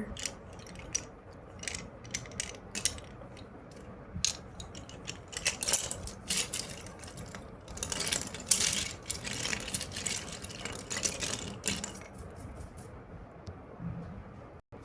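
Slate pencils clicking and clinking against one another as they are handled: a run of sharp clicks, thickening into a dense rattle around the middle.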